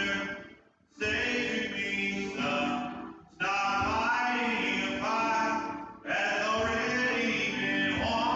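Church choir singing, in phrases broken by brief near-silent gaps about a second in, about three seconds in and about six seconds in.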